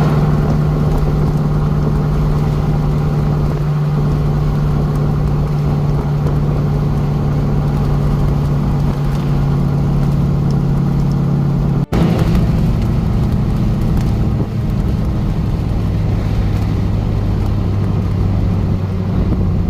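LS V8 engine of a Jeep Wrangler TJ running at a steady cruise, a constant low drone under loud road noise, heard from inside the Jeep. About twelve seconds in the sound breaks off abruptly and resumes with the drone at a lower pitch.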